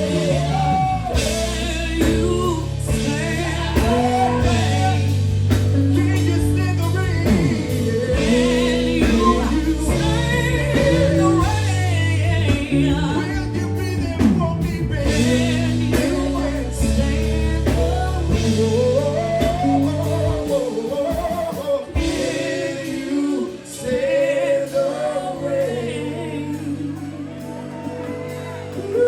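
A woman singing with a live band, her voice bending through long runs over bass, drums and guitar. About twenty seconds in the bass and drums drop away, leaving the voice over lighter backing.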